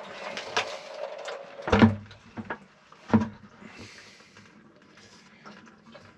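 Plumbing fittings and tools being handled: small clicks and rattles, then two sharp knocks about a second and a half apart, and quieter handling after.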